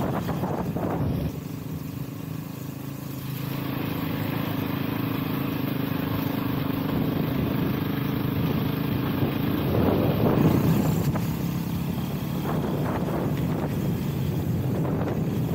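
Honda CRF-X single-cylinder four-stroke dirt bike engine running steadily on a trail ride, with wind noise on the microphone. The engine drops off about a second in and picks up again a couple of seconds later.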